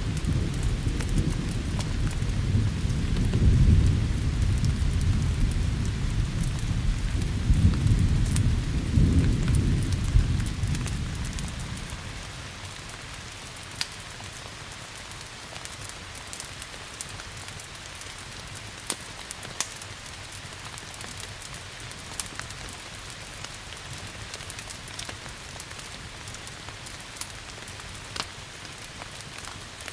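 A long roll of thunder rumbling over steady rain, fading out about twelve seconds in, leaving the rain's hiss with scattered sharp crackles and pops from a wood fire.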